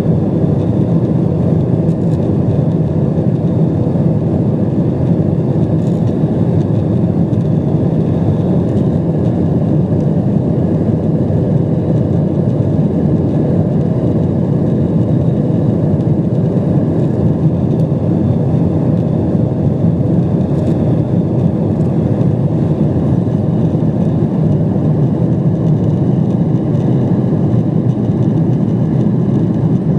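Steady cabin noise of a Boeing 777-200 in cruise: an even low roar of engines and airflow, unchanging throughout.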